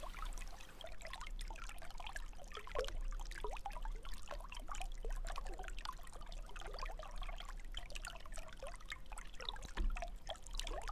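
Water trickling and bubbling steadily, a dense patter of small gurgles and splashes.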